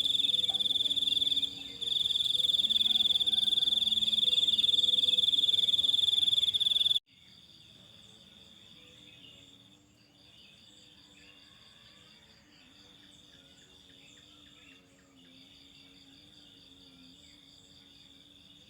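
Insects trilling, a steady high-pitched drone like crickets. About seven seconds in it cuts off abruptly to a much quieter recording, where the trill comes in spells of two to three seconds with short breaks and faint low calls underneath.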